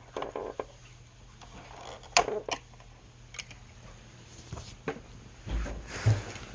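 Objects being handled indoors: a few sharp clicks and knocks scattered through, and a heavier low thump near the end.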